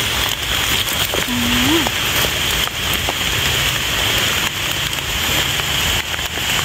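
Steady rain falling on forest foliage and leaf litter, with faint rustling and clicks of wet leaves as a hand pulls a mushroom from the ground.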